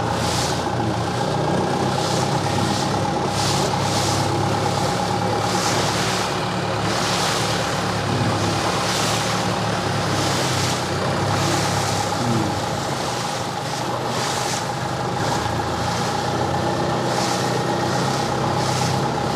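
Boat engine running steadily under way, with a steady whine above it and regular swishes about once a second.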